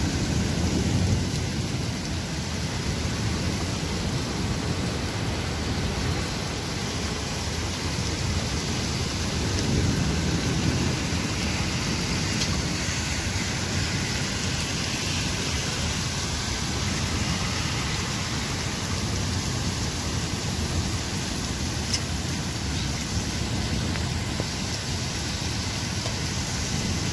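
Heavy rain falling in a steady, dense hiss, with low rumbling swells about a second in and again around ten seconds.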